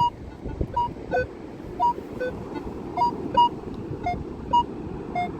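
Metal detector giving short target-tone beeps about twice a second, jumping between low, middle and high pitches as the coil sweeps over buried metal, which the detectorist reads as a $2 or $1 coin. A steady rushing noise runs underneath.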